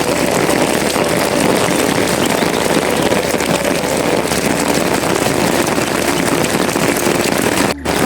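Heavy rain falling steadily, a dense hiss of many drops, cutting out for a moment near the end.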